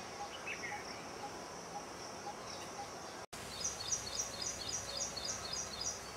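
Birds calling: a few faint chirps, then a rapid run of high repeated call notes, about four a second, over a steady high hiss.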